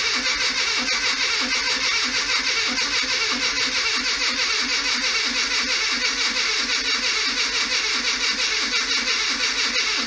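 Classic Mini A-Series engine turning over on its starter motor with the ignition coil disconnected, so it cranks steadily without firing, in even pulses of about four to five a second. It is being spun to build oil pressure after a new oil pump was fitted.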